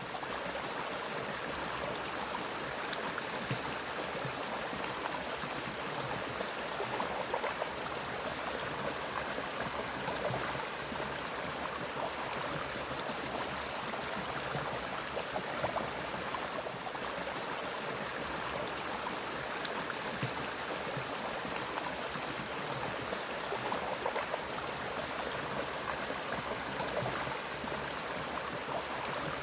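Mountain stream flowing through forest: a steady rush of running water, with a thin, steady high-pitched tone over it.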